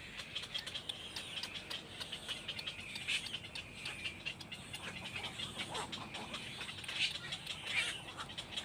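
Small birds chirping: a continuous run of many short, high chirps overlapping one another, a little louder around three seconds in and again near the end.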